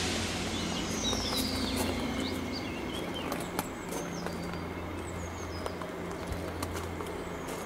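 Small birds chirping and whistling in short calls, over a low steady engine hum.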